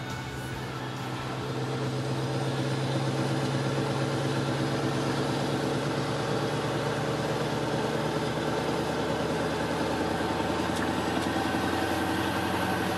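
Scania R500 truck's V8 diesel engine running steadily, growing louder over the first couple of seconds and then holding an even note.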